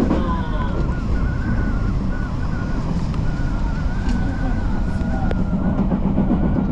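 Odakyu Line commuter train running, with a steady low rumble and a high, wavering whine held throughout.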